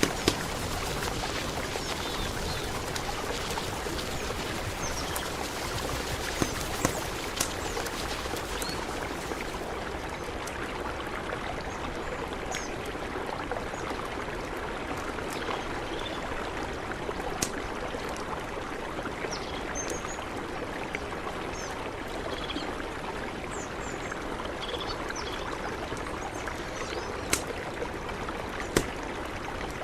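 A mountain river running steadily, a continuous even sound of flowing water, with a few sharp clicks scattered through it.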